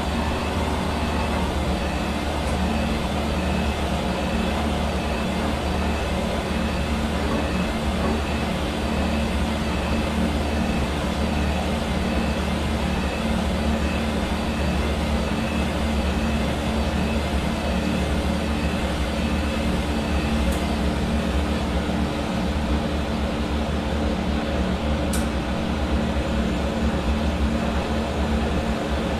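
Hair dryer running steadily: a constant rush of blown air with a low motor hum beneath it.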